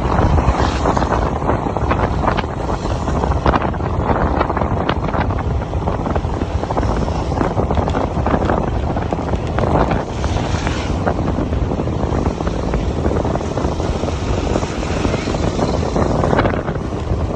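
Yamaha Aerox 155 scooter riding at speed, its single-cylinder engine running under heavy wind buffeting on the microphone.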